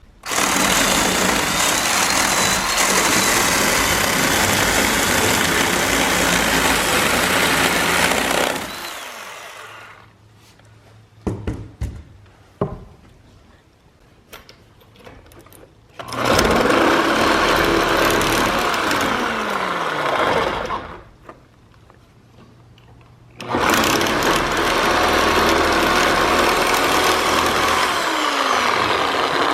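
Power saw cutting wood in three long runs, squaring off the bottom of a temporary support post, with a few knocks between the cuts.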